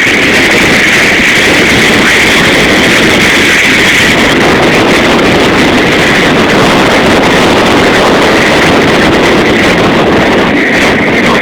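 A vehicle's engine running steadily under heavy wind noise on the microphone, a loud continuous rush with a steady whine.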